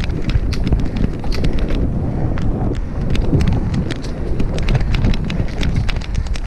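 Mountain bike riding fast over a dirt trail: steady wind and tyre rumble on the microphone, with many sharp, irregular clicks and rattles from the bike over bumps.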